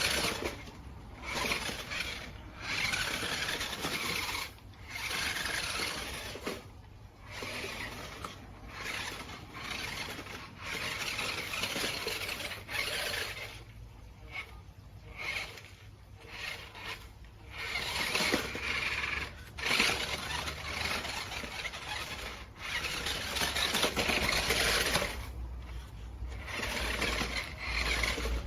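Remote-control toy monster truck driving in short bursts that start and stop every few seconds, its small motor and wheels giving a scraping, rattling noise.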